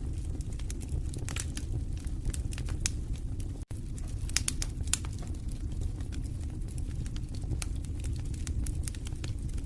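Wood fire in a fireplace crackling, with irregular sharp pops and snaps over a low, steady rumble of burning logs. The sound cuts out for a split second about a third of the way through.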